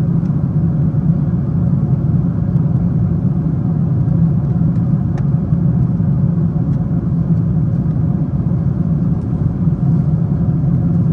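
Steady low roar inside the cabin of a Boeing 777-200ER in cruise: engine and airflow noise heard from an economy seat, even throughout, with a faint tick about five seconds in.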